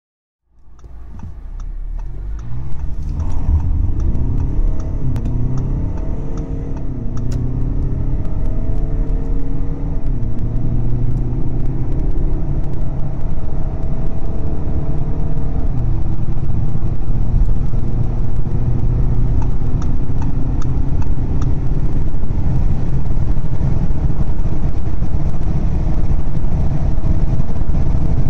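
Audi A6 2.0 TDI ultra's four-cylinder diesel heard from inside the cabin under full acceleration from a standstill. The engine note rises and drops back at each automatic upshift, and the low road and engine rumble builds as the speed climbs.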